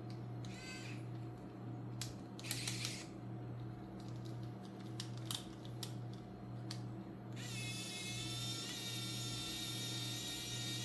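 Small clicks and a brief rustle of screws and plastic servo parts being handled while the servo mounts are unscrewed, over a steady low hum. About two-thirds of the way in, a steady high whir with hiss starts, rising briefly at its onset.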